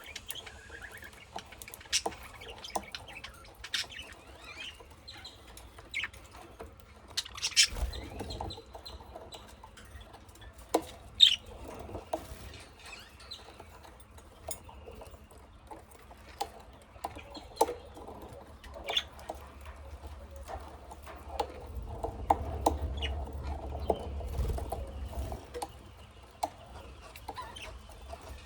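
Small pet cage birds, budgies and lovebirds, chirping and twittering now and then, with many sharp clicks and taps scattered through, two of them much louder about a third of the way in.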